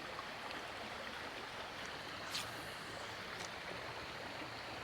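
Creek water running over rocks: a steady rushing hiss, with a few faint clicks, the clearest about halfway through.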